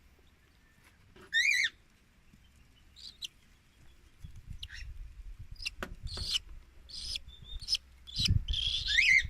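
Hungry baby cockatiel chick begging while being syringe-fed formula: scattered short chirps, with a longer bending call about a second and a half in and another near the end, over some low handling rustle.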